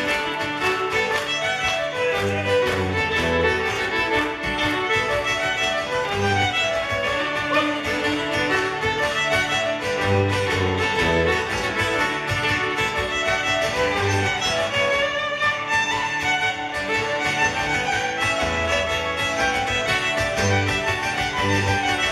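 Live folk band playing an instrumental break: a fiddle carries a quick tune over a steady beat of strummed accompaniment and low bass notes.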